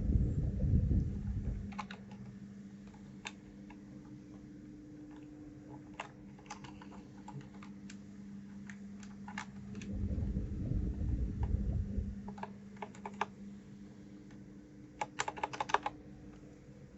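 Mechanical keyboard keys clicking at irregular intervals, with a quick run of presses near the end. A low rumble comes twice, near the start and about two-thirds of the way in, over a steady low hum.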